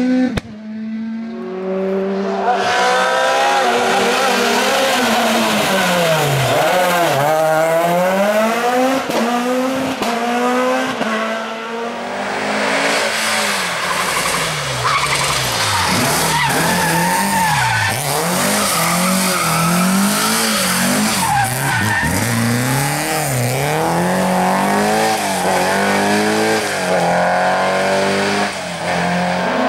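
Rally car engine revving hard, its pitch climbing and falling again and again as it accelerates, shifts and lifts through corners, with tyres squealing and skidding.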